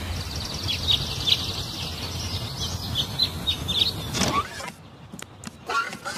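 Outdoor ambience: birds chirping in short high notes over a steady low rumble. About four seconds in comes a short rising sweep, then it goes quieter, with a few light clicks.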